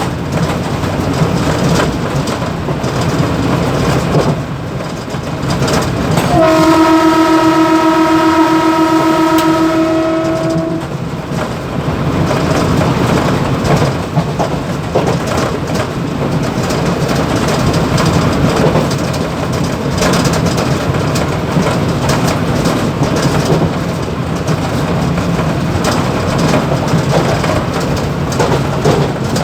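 Mumbai suburban electric multiple-unit (EMU) local train running at speed, heard from inside the motorman's cab, with a steady rumble and the clatter of wheels and rattling fittings. About six seconds in, a train horn blows once as one steady held note for about four and a half seconds.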